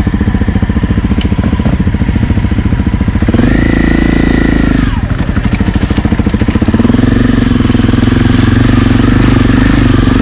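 Honda CRF250L's single-cylinder four-stroke engine running while ridden. Its revs rise sharply after about three seconds, fall away a second and a half later, then build again and hold to the end.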